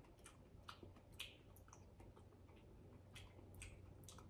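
Faint chewing of a mouthful of lacto-fermented giardiniera, with scattered small clicks and crunches at irregular intervals.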